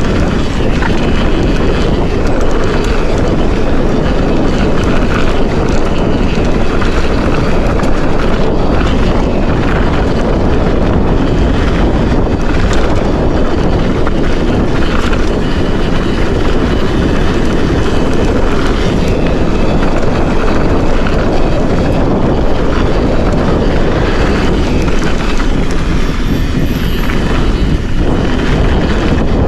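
Steady rush of wind on the microphone with the rumble of a mountain bike's tyres on a dirt trail, riding downhill without a break.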